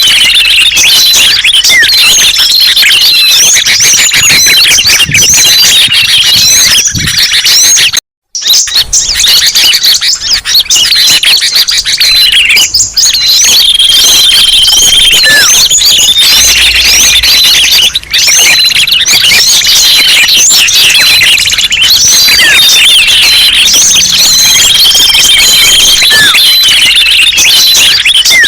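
Dense, loud chorus of small songbirds chirping, trilling and whistling, played as a bird-lure recording; the same stretch of calls comes round again about every eleven seconds, with a brief dropout about eight seconds in.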